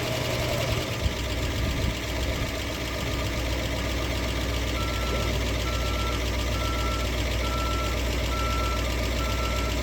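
1958 Oldsmobile 88's V8 idling. About a second in, its low rumble drops deeper and steadies as the transmission is put into gear and the engine takes up the load against stuck brakes. From about five seconds in, a short high beep repeats about one and a half times a second.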